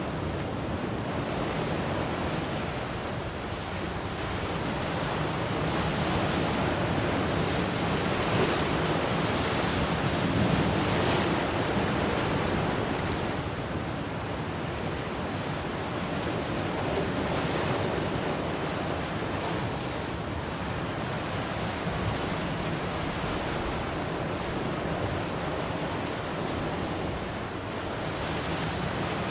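Ocean waves breaking and washing on the shore in a continuous wash, swelling and easing slowly every few seconds.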